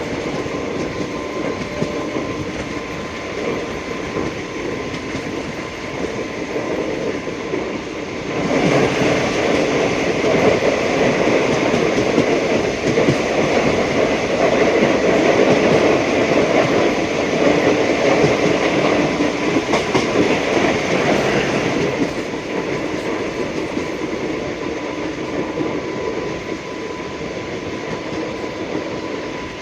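Passenger train running along the track, with steady rumble and wheel-on-rail noise. It grows louder about eight seconds in and eases back down past the twenty-second mark.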